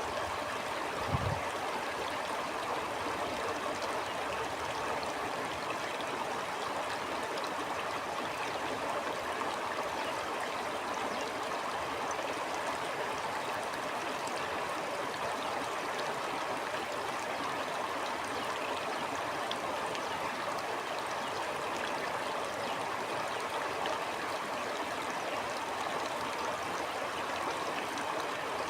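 Stream flowing steadily: a continuous rush of water, with a brief low thump about a second in.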